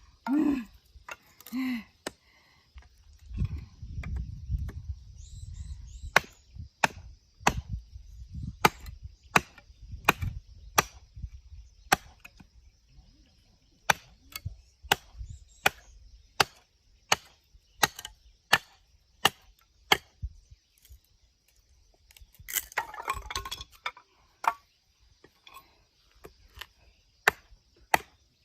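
Firewood being split by hand: a long run of sharp, regular chopping strikes into wood, about one and a half a second, after a few irregular knocks at the start.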